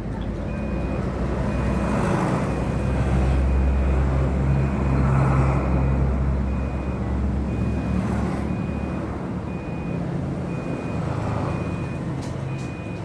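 A motor vehicle's low engine rumble swelling and then fading, with a short high beep repeating about twice a second throughout.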